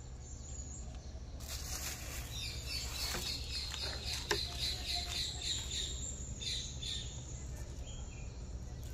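A bird singing a quick run of repeated high chirps, with a few more calls later, over a steady low hum. Two light knife taps on a wooden board come in the middle.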